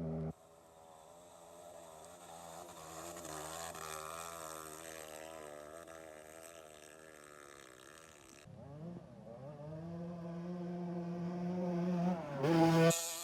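Off-road trail motorcycle engines running in neutral at a steady rev with a wavering pitch. About eight seconds in the sound changes abruptly to another bike, which revs up, and near the end an engine revs higher and louder.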